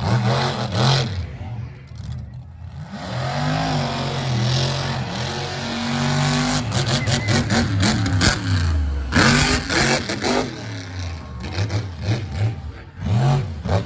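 Monster truck engine revving hard through a freestyle run, its pitch surging up and dropping back again and again, with sharp bangs in between.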